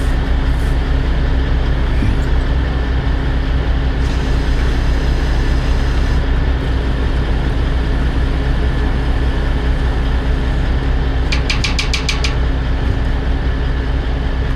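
Heavy-equipment diesel engine running steadily with a constant low hum. About three quarters of the way through comes a quick run of about eight short high ticks lasting under a second.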